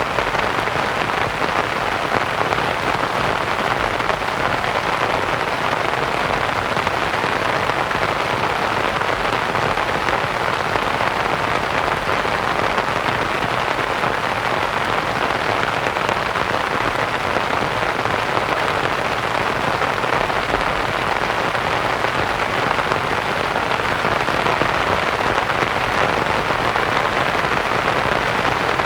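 Steady rain pattering on a canvas tent, blended with soft white noise, even and unchanging throughout.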